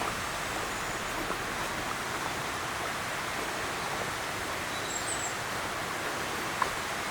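Steady rushing of flowing water, even throughout, with a faint high bird chirp about five seconds in and a small click near the end.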